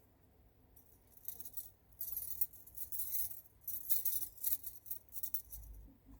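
Thin gold bangles jingling and clinking against one another as they are handled, in a run of quick bright bursts starting about a second in and dying away near the end.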